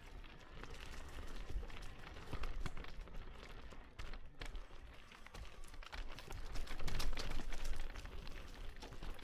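Footsteps on a forest trail: irregular crunching and crackling from walking on leaves and grit, with a low rumble on the microphone.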